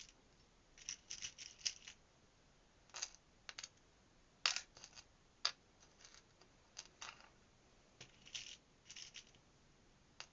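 Scattered light clicks, taps and rattles of small metal jewellery findings and clasps being handled and sorted, with the sharpest click about halfway through.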